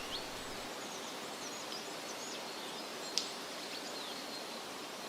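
Forest ambience: a steady background hiss with many faint, short, high bird chirps scattered through it. There is one brief, sharper click about three seconds in.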